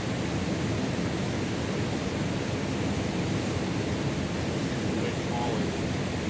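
Steady rush of river rapids: fast water running over rocks.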